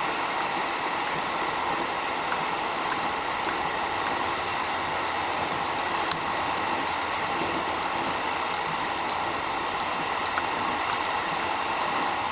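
Electric commuter train running at speed, heard from inside the car as a steady running noise, with two sharp clicks, one midway and one near the end.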